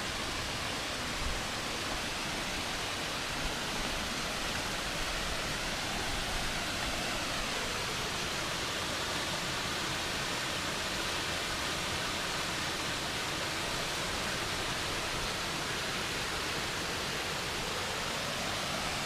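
Steady rushing of water in a small stream flowing over rocks.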